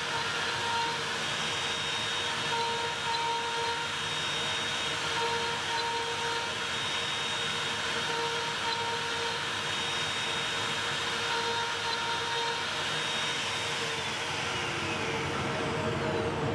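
A Makita router running steadily on a CNC machine, a whining hum with a steady pitch. A higher tone comes and goes in short stretches. Near the end, a high whine slides down in pitch.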